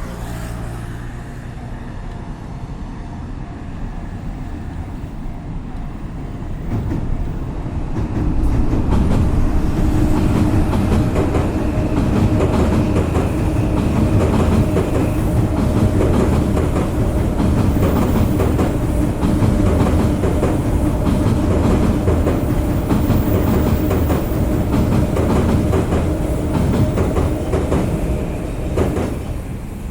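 A commuter train passing close by on the railway beside the road, with wheels clattering along the track. It builds over a few seconds, runs loud for about twenty seconds, then drops away near the end.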